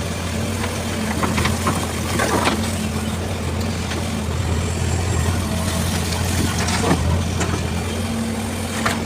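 Heavy diesel engine running steadily at low revs, with a few sharp knocks about a second and a half, two and a half and seven seconds in.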